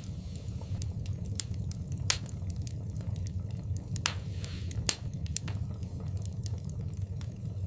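Wood fire crackling in a fireplace: a steady low rumble of flames under scattered sharp snaps and pops, with two louder pops about two and five seconds in and a brief hiss just before the second.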